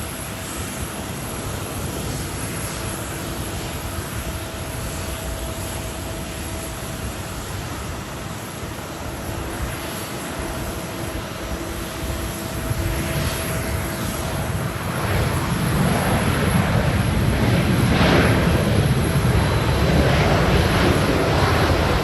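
Airbus A320-232 jet airliner with IAE V2500 engines on its landing approach in strong wind. The engines run steadily with a faint whine, then grow steadily louder from about two-thirds of the way through as the jet comes closer.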